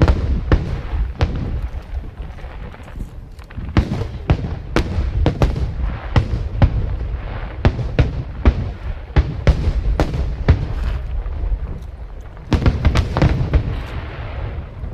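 Aerial fireworks display: a rapid, irregular series of shell bursts and bangs over a continuous low rumble, thickening into a dense volley near the end.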